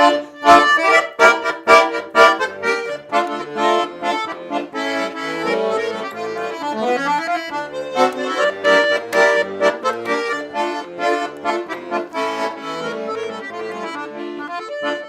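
Bayan (Russian button accordion) playing an instrumental interlude between sung verses of a folk-style song: short, sharp chords over the first couple of seconds, then a flowing melody over held chords.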